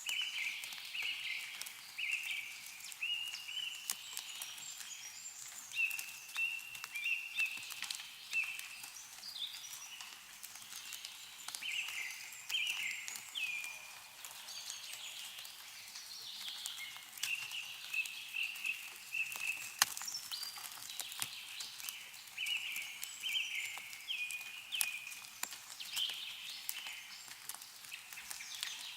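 Birds chirping over and over in short high calls, with scattered drips of snowmelt falling from trees.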